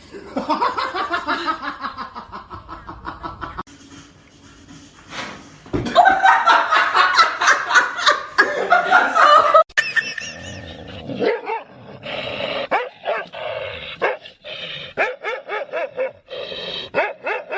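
A dog barking and yipping in repeated sharp calls, loudest in a rapid run through the middle, with people laughing.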